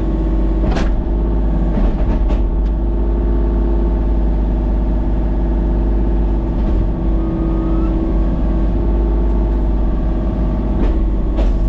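Engine of a machine running steadily at a constant speed, with a few brief cracks or knocks, one near the start and one near the end.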